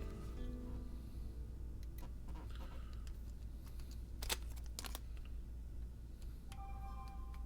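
A few sharp clicks and taps of a Phillips screwdriver and small screws as a switch is fastened onto a paintball marker frame, the loudest about halfway through, over a low steady hum. Background music comes in near the end.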